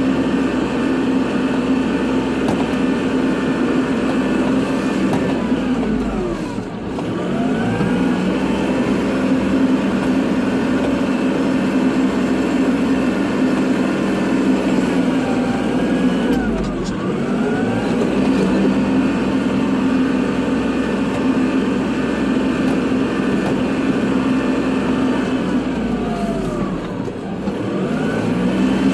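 Kubota tractor's diesel engine running under load while plowing snow. Its speed dips and comes back up three times, about every ten seconds.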